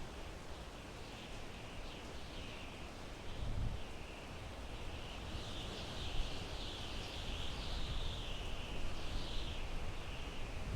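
Wind blowing through pine trees in a steady rush, with a low gust swelling about three and a half seconds in. A continuous high-pitched wavering sound rises and falls above it throughout.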